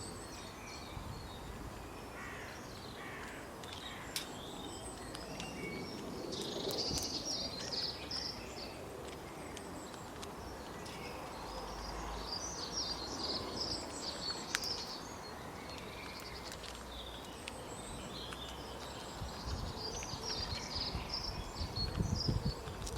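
Outdoor natural ambience: a steady background hiss with high-pitched bird calls that come in three clusters.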